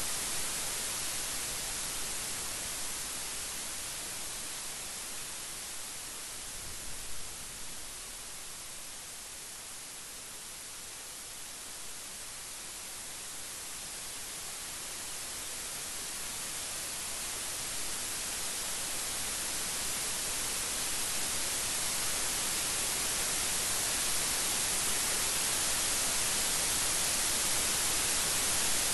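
Steady rain, a dense even hiss that eases a little about a third of the way through, then builds gradually louder toward the end.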